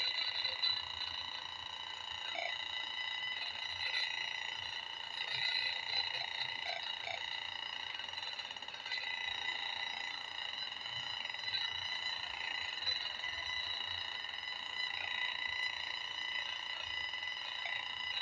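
Acousticom 2 RF meter's audio output: a continuous, steady electronic tone with several overtones, wavering slightly in loudness. The owner takes it for a microwave signal stronger than the meter can measure.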